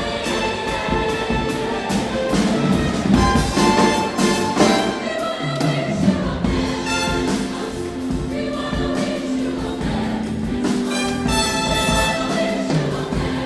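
Choir singing in several parts, holding long notes.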